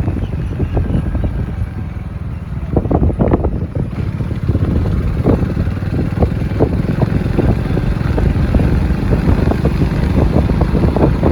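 Wind buffeting the microphone: a loud, steady low rumble broken by irregular short pops.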